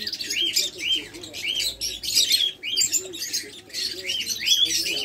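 Many caged birds chirping and chattering at once, with one call repeating as a short rising-and-falling chirp about twice a second.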